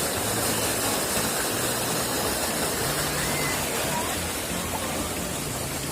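Steady rush of a waterfall's falling water, with faint, indistinct voices beneath it.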